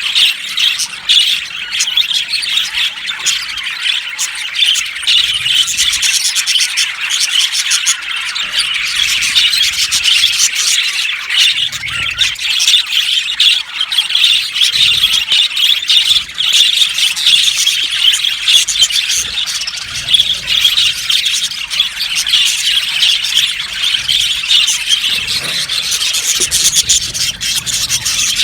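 A colony of budgerigars chirping and chattering all together in an aviary, a dense, continuous mass of overlapping high-pitched warbles and squawks.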